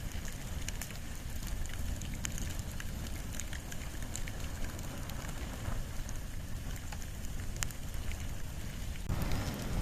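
Wood and bamboo fire burning: a low steady rumble of flames with scattered sharp crackles and pops. About nine seconds in, the sound changes suddenly to a denser hiss.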